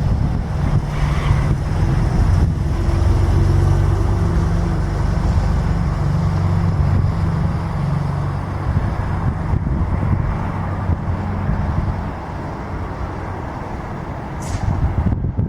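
Low, steady engine rumble with a pitched hum that eases off after about twelve seconds, and a brief hiss near the end.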